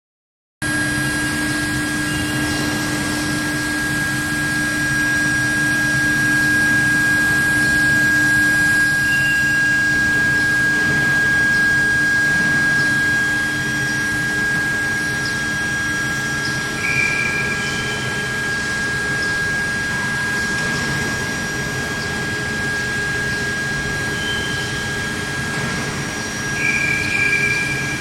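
Induction quenching machine running: a steady high-pitched whine over a noisy low hum, with brief higher chirps twice in the second half.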